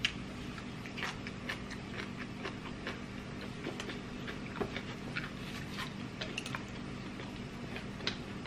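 Close-mouthed chewing and lip-smacking while eating by hand: irregular soft wet clicks and crackles, a few a second, over a steady low hum.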